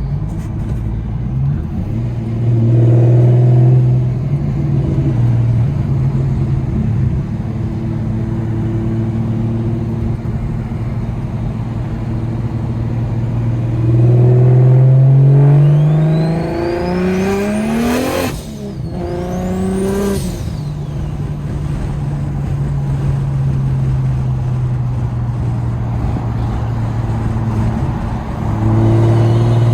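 BMW 335i's N54 inline-six with a DocRace single-turbo kit, heard from inside the cabin: it cruises with a steady drone and pulls briefly a couple of seconds in. About halfway through it runs up in pitch under acceleration, breaks off at a gear change with high sweeping whistles, then settles back to a cruise and picks up again near the end.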